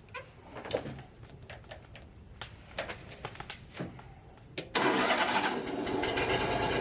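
A few light knocks and clicks, then about three-quarters of the way through an engine starts suddenly and keeps running.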